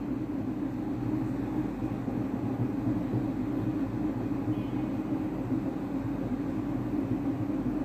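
Sliced onions frying in oil in a non-stick pan, a steady sizzle over a constant low hum.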